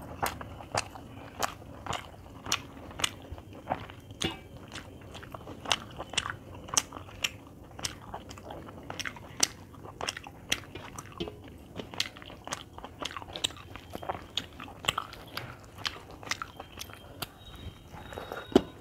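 Close-up eating sounds: a person chewing a mouthful of rice and chicken, with sharp wet mouth smacks about twice a second.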